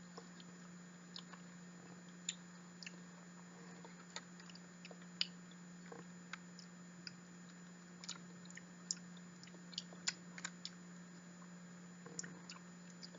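Close-miked mouth sounds of chewing soft, custardy durian flesh: faint, scattered wet clicks and smacks over a steady low hum.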